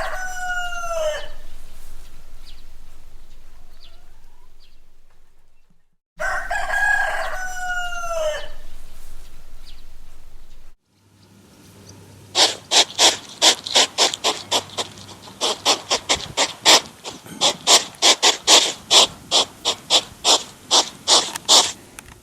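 A rooster crowing twice, each crow a single call that falls in pitch at the end. Near the end this gives way to a quick run of short, sharp calls, about three or four a second.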